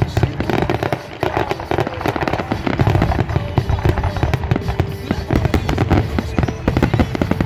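Fireworks finale barrage: aerial shells bursting in rapid, overlapping succession, many bangs and crackles a second with no pause.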